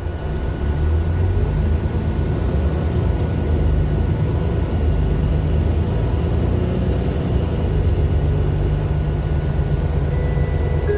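Onboard a Mercedes-Benz Citaro LE city bus under way: the Daimler OM 457 hLA inline-six diesel runs with a steady low drone and road noise, picking up slightly about a second in.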